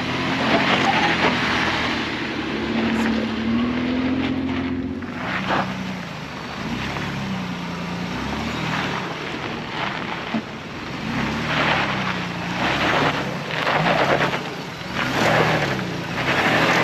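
Off-road pickup's engine revving up and down in repeated surges as it works its way up a rocky trail obstacle.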